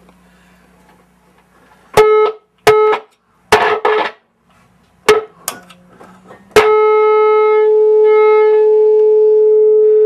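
Test tone from an audio signal generator sounding through a speaker driven by a Rhodes Mark II suitcase power amp. It cuts in and out in short, crackly bursts, then holds steady for the last few seconds: an intermittent connection, which the technician puts down to a faulty jack.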